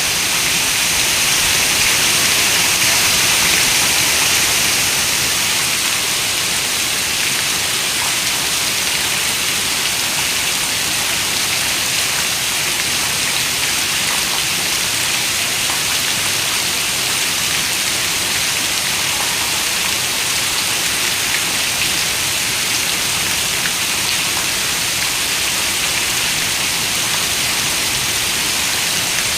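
Heavy rain falling steadily on a window, a dense even patter with faint individual drop ticks, swelling slightly in the first few seconds.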